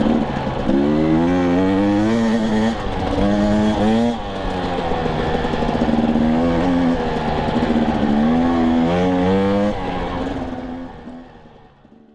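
Husqvarna TE250i two-stroke dirt bike engine revving up and down through the throttle as it is ridden on a trail, the pitch climbing and dropping several times. The sound fades away near the end.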